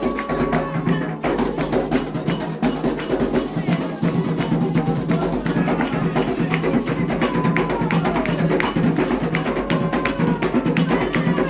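Afro-Brazilian ritual drumming: atabaque hand drums and sharp, clicking struck percussion playing a fast, dense rhythm, with voices singing over it.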